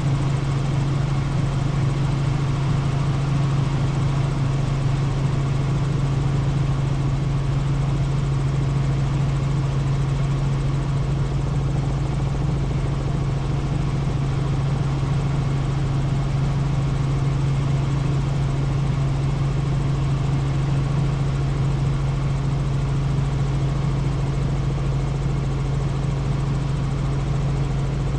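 Helicopter rotor and turbine engine running steadily, a constant low drone with a rushing noise over it.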